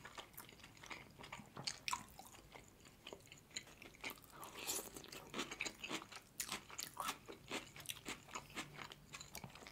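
Crunching and chewing of a raw red bell pepper strip, close to the microphone: many small, uneven crisp crunches.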